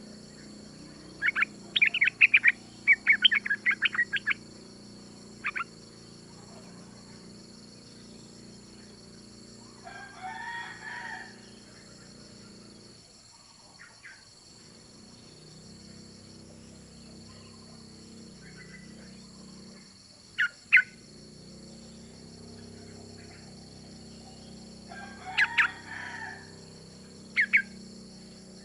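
Female yellow-vented bulbul (trucukan) call, the kind used as a lure to set males singing: bursts of sharp, short chattering notes, a quick run of them in the first few seconds, then scattered single notes and pairs. Twice a longer, lower call of about a second sounds behind them.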